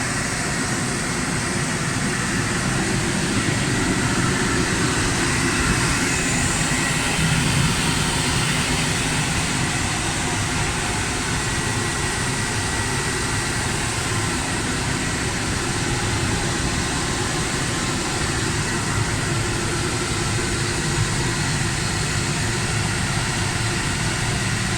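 Grain drying and handling machinery running with a steady, even noise, and a faint high steady tone in it.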